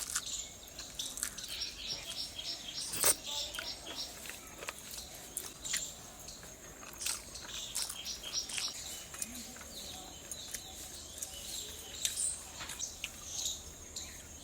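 Birds chirping: a quick run of short, high chirps in the first few seconds, against scattered soft clicks and taps.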